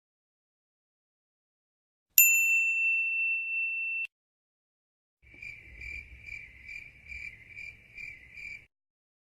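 A single bright ding sound effect rings about two seconds in, holds one high tone and cuts off suddenly. After a short pause comes a cricket-chirp sound effect, about eight even chirps over three seconds.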